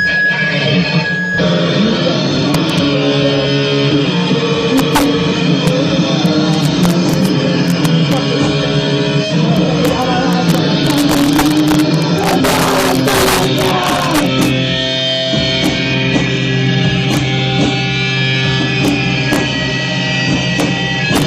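Live punk band playing a loud song: distorted electric guitars, bass and drums with crashing cymbals and some vocals, recorded with poor, distorted sound.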